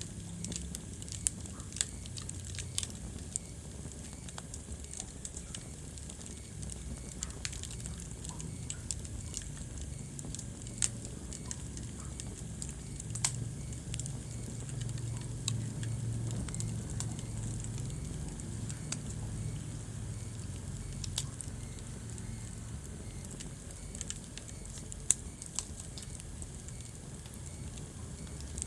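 Wood fire burning in a fireplace: a steady low rumble of the flames with frequent sharp crackles and several louder pops.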